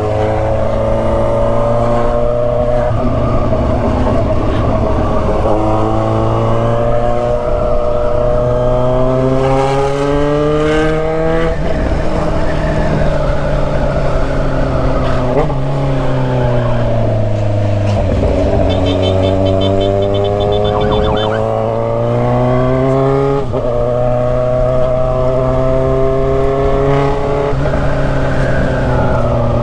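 Kawasaki Z900RS inline-four running through an Atalla stainless-steel 4-into-1 header and 'canela seca' muffler while riding. The engine note climbs slowly, drops sharply about 11 s in and again about 23 s in, and dips more gradually in between.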